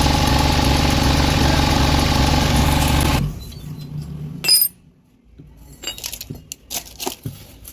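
A motor running steadily, cutting off abruptly about three seconds in, followed by a loud metallic click and scattered small metal clinks.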